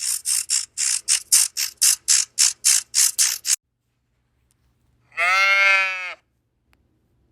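A quick run of short, hissy huffs, about four a second, stopping after three and a half seconds; then, about five seconds in, one bleat lasting about a second, typical of a goat.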